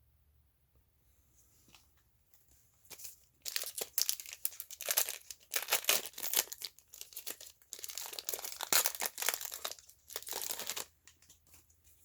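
Foil wrapper of a Pokémon booster pack being torn open and crinkled. Dense crackling tears start about three seconds in, pause briefly midway, and stop just before the end.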